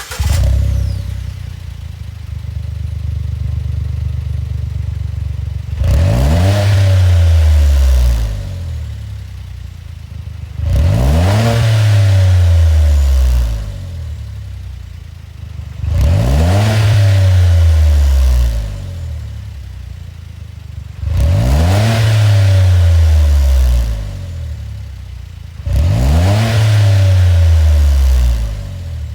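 Suzuki Jimny JB64's 660 cc turbo three-cylinder engine breathing through a 5次元 SP Spec Street aftermarket muffler: idling, then revved five times about five seconds apart, each rev climbing, held briefly and dropping back to idle.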